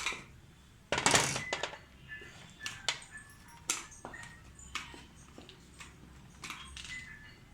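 Irregular clicks and clatter of small hard parts and tools being handled during repair work, with a louder clattering burst about a second in.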